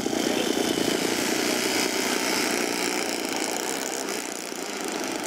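RC model airplane engines buzzing steadily with propellers turning, easing a little about four seconds in and then picking up again.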